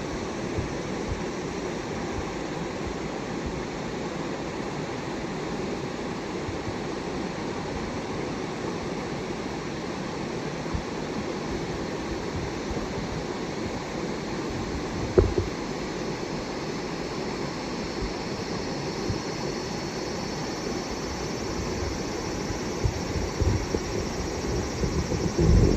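Steady rushing noise, with one sharp knock about fifteen seconds in and irregular knocks and handling sounds growing louder near the end.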